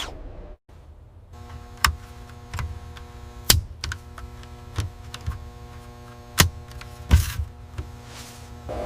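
Steady factory machinery hum made of several even tones, broken by a handful of sharp mechanical clicks and clanks at irregular intervals.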